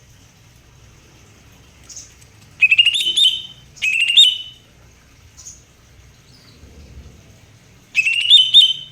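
Greater green leafbird (cucak hijau) singing loud bursts of quick rising, whistled notes, three phrases about a second long, with a few faint short calls between them.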